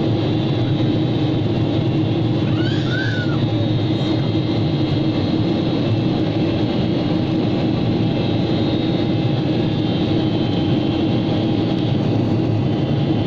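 Steady jet airliner cabin noise after takeoff: an even rush of engine and airflow noise with a constant hum. About three seconds in, a short faint pitched wavering sound rises over it.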